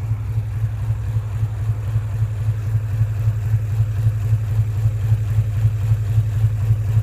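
Infiniti G35's 3.5-litre V6 idling very rough and chugging, with a lumpy, uneven pulse, after one fuel injector has been unplugged. The owner takes it to be running on only three cylinders.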